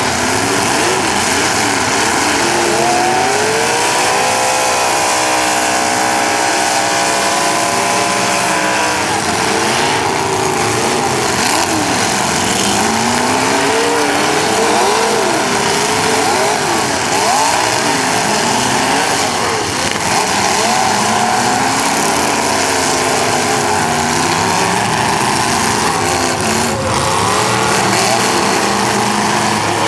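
Several demolition derby cars' engines revving at once, pitches rising and falling over one another, one held at a high rev for several seconds early on. A single bang sounds shortly before the end.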